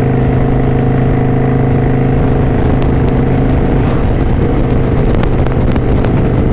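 Kawasaki Vulcan 900 Classic LT's V-twin engine running at a steady cruising speed, its pitch holding even throughout.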